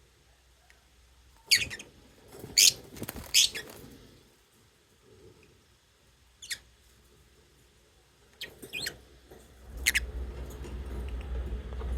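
Pet lovebirds giving short, sharp high chirps, singly and in quick pairs with pauses between. A low rumble comes in near the end.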